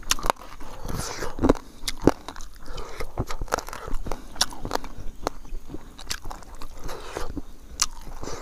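A person chewing a mouthful of rice and pickle, with irregular crunches and wet mouth clicks picked up close by a clip-on microphone.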